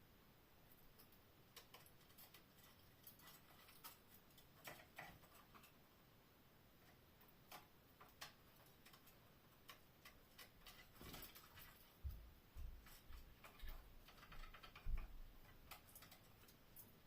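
Faint, irregular clicks and taps from canaries in their cage, with a few low thumps in the second half.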